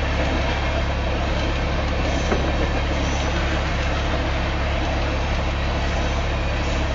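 BNSF freight train of tank cars rolling past, a steady, even noise with a strong low hum throughout.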